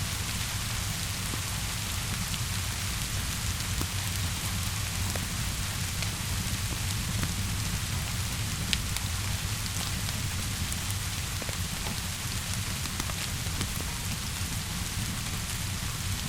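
Steady rainfall with a low rumble underneath, mixed with scattered small crackles and pops from a wood fire, one sharper pop about nine seconds in.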